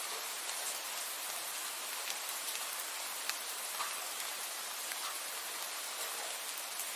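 Steady rain falling: an even hiss, with single drops ticking sharply now and then close by.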